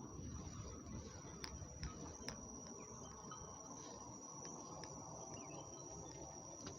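Insects in the forest making a steady, high-pitched drone, faint, over a low background rumble with a few scattered clicks.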